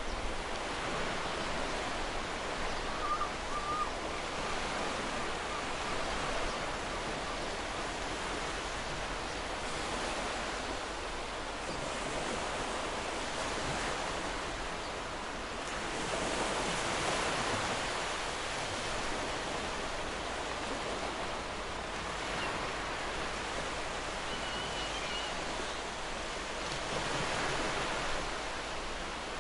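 Ocean surf washing onto a beach in a continuous rush, swelling a little louder twice, about halfway through and again near the end.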